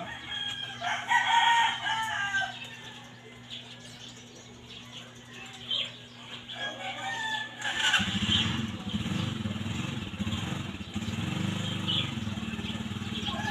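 Roosters crowing: a long crow about a second in and another around the middle. About eight seconds in, a steady low engine hum starts up and runs on underneath.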